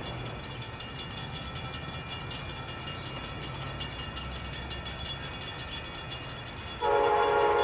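Amtrak P42DC diesel locomotive running with a low, steady rumble, then near the end its K5LA five-chime air horn sounds suddenly and loudly as a sustained chord.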